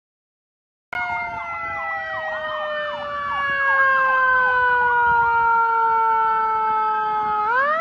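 Several emergency-vehicle sirens sounding at once, starting abruptly about a second in: a long siren tone gliding slowly down in pitch, with a faster yelping siren sweeping up and down over it for a few seconds, then the tone winding back up near the end.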